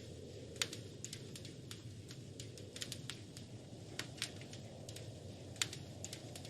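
Wood fire crackling and popping in a fireplace: irregular sharp snaps over a steady low rumble of the flames, with a louder pop about half a second in and another near the end.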